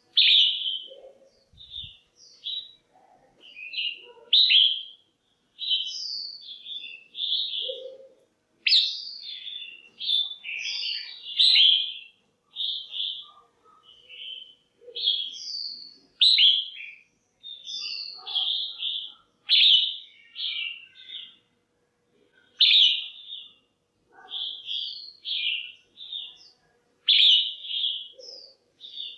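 Female red-whiskered bulbul calling: loud, clear, chirpy phrases of a few quick notes, repeated in runs with short pauses between. These are calls of the kind played to stimulate male bulbuls or to pair birds.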